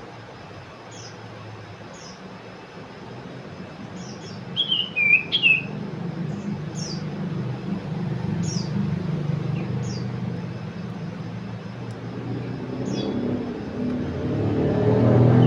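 Songbird chirping: short, high, falling chirps about once a second, with a louder warbling phrase about five seconds in, over a low rumble that grows louder toward the end.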